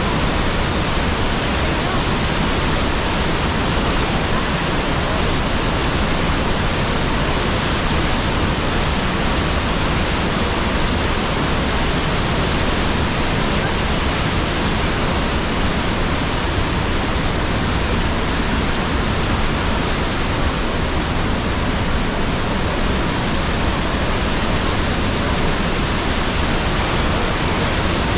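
The Rhine Falls, a large waterfall, heard as a loud, steady rush of falling water without a break.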